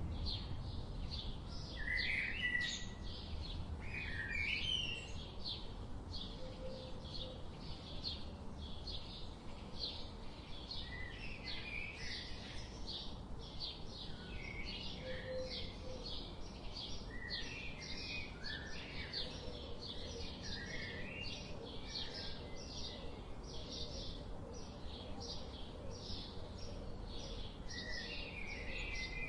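Songbirds chirping without pause: a quick run of short, high chirps, with lower warbled phrases from other birds now and then, over a low steady rumble.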